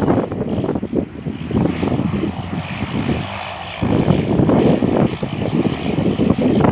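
Aircraft engine noise, with gusty wind buffeting the microphone; the buffeting eases briefly just past the middle while the engine noise carries on.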